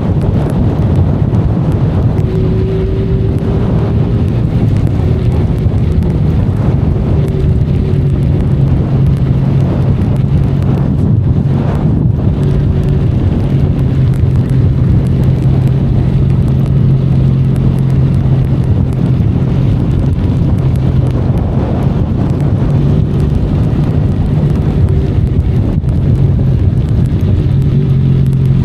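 Benelli Leoncino 500 Trail motorcycle's 500 cc parallel-twin engine running at a steady, even speed while riding, with wind rushing over the microphone.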